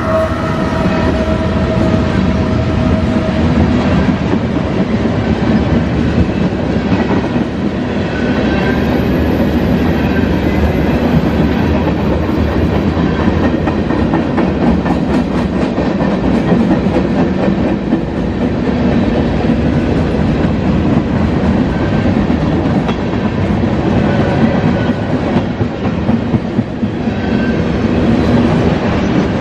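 CSX freight train cars rolling past, a steady rumble with wheels clattering over the rail joints. A steady tone fades out over the first few seconds.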